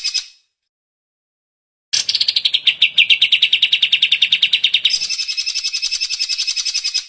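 Cucak ijo (green leafbird) singing rapid trills of about ten notes a second. The first trill starts about two seconds in, after a brief silence, and dips slightly in pitch at first. About five seconds in it changes to a steadier, higher trill.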